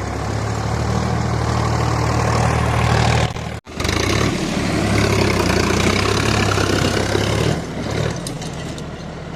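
Engine running steadily with a low hum, cutting out for an instant about three and a half seconds in, then running on and easing off near the end.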